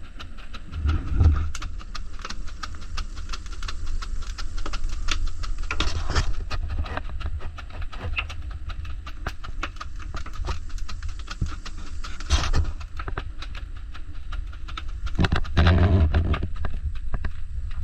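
Oak firewood fire crackling with many small pops over a low rumble, with a few louder bursts of noise.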